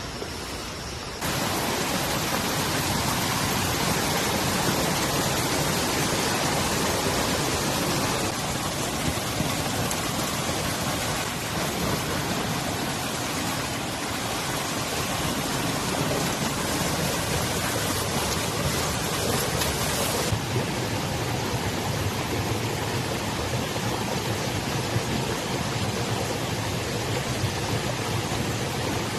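Steady rushing water noise, even and unbroken. It jumps louder abruptly about a second in, and its hiss turns duller about twenty seconds in.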